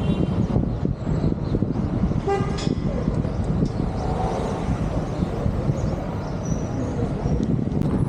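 Steady road-traffic rumble with a short vehicle horn toot about two and a half seconds in.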